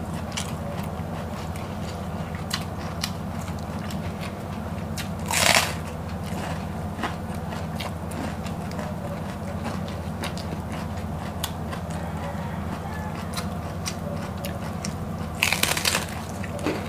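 Crunchy chewing of raw cabbage leaves by two people: many small crackles, with two louder crunching bites, one about five seconds in and one near the end. A steady low hum runs underneath.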